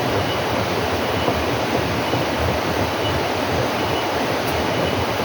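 Steady, loud rushing noise with no pitch or separate strokes, of the kind made by running water or wind.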